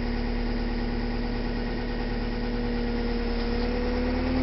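John Deere 310G backhoe's diesel engine idling steadily while still cold, as the machine creeps forward in first gear. A steady whine runs over the engine and rises slightly in pitch near the end.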